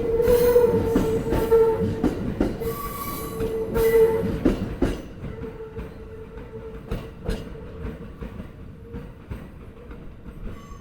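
Sobu Line commuter train's wheels clacking over rail joints, with a steady wheel squeal beneath. The clacks come thick and loud for about the first five seconds, then thin out and fade.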